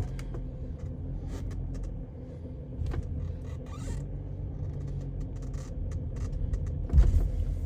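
Car pulling away and driving shortly after a cold start, heard from inside the cabin: a steady low engine and road rumble with scattered light clicks and creaks. There is a louder low thump about seven seconds in.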